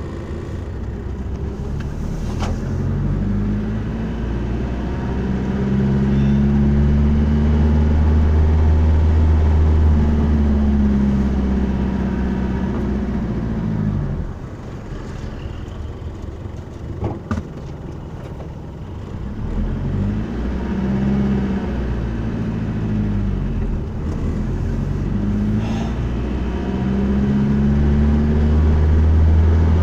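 Car engine pulling as the vehicle is driven, its pitch rising and falling twice as it speeds up and eases off, with a dip about fourteen seconds in. A few single sharp knocks sound over it.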